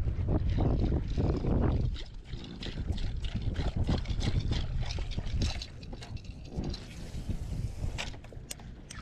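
Wind buffeting the microphone for the first two seconds, then irregular water splashing and trickling around a small boat.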